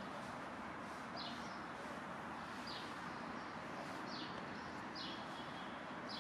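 A small bird chirping over and over, short high falling chirps about every second and a half, over a steady background hum of street noise.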